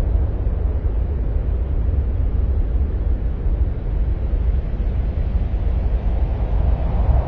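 Steady, deep rumbling noise with a softer hiss above it and no distinct events, presented as the ambient sound of Mars.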